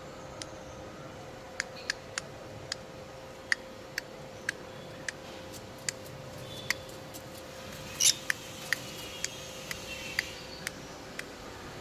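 Small birds: sharp irregular clicks, one or two a second, with a few faint high chirps about two-thirds of the way through, over a faint steady hum.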